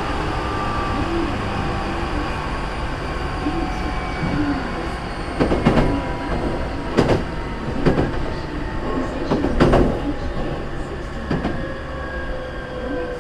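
Hankyu 3300-series electric commuter train running, heard from inside the car: a steady rumble with a motor and gear whine that falls gently in pitch as the train slows before a station. A cluster of sharp wheel knocks over rail joints or points comes about halfway through.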